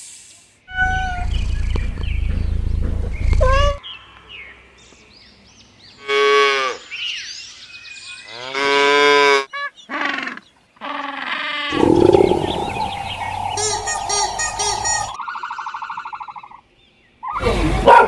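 A string of separate farm animal calls cut one after another, with several short pitched calls in the middle.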